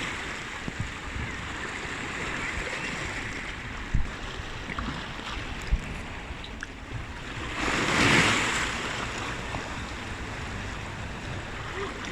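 Sea waves washing in a steady rush, with one wave surging and breaking about eight seconds in. Two brief knocks sound around the middle.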